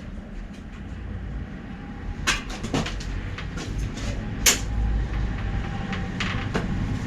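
Handling noise from bike workshop work: several sharp clicks and knocks, the loudest about two and a half and four and a half seconds in, over a steady low rumble.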